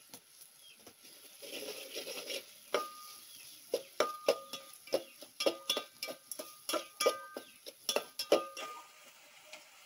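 A metal spoon stirring and knocking against a metal cooking pot: a quick, uneven run of clinks and taps, some leaving a short metallic ring.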